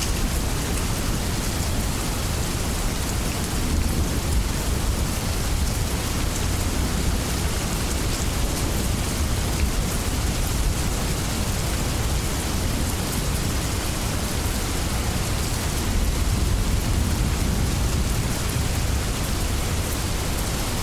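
Steady heavy rain with a deep, continuous low rumble beneath it, swelling slightly a few seconds in and again near the end.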